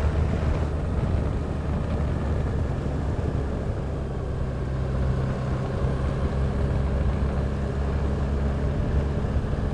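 Motorcycle engine running at a steady cruising pace with wind and road noise, the engine's hum holding an even pitch.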